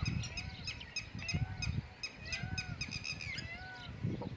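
Many birds chirping and calling at once, quick arching chirps layered over slower repeated arching calls, while strong wind buffets the microphone with low rumbling gusts.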